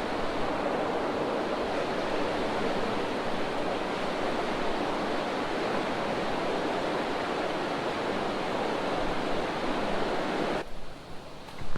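Steady rush of fast-flowing creek water, an even hiss-and-roar of current. It cuts off suddenly near the end, leaving a much quieter background.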